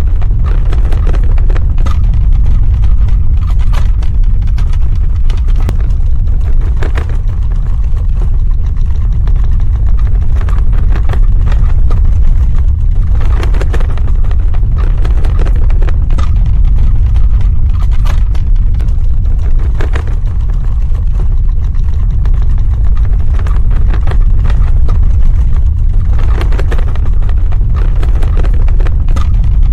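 Earthquake sound effect: a loud, continuous deep rumble with scattered cracks and rattles throughout.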